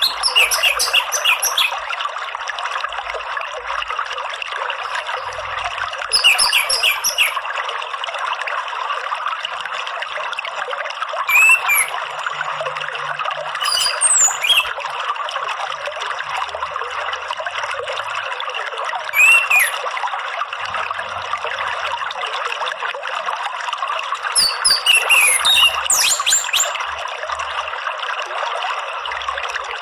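Steady running water, like a trickling stream. Over it, short phrases of chirping song from an orange-headed thrush come every few seconds.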